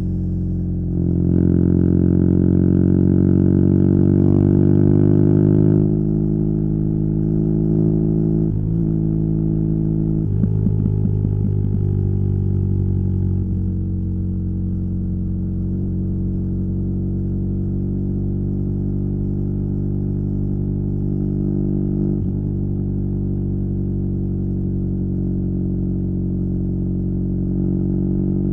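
BMW R nineT's boxer-twin engine through a Competition Werkes slip-on exhaust, under way. Its revs climb under power for the first few seconds, then it changes gear with a few short clicks and settles to a steady cruising note.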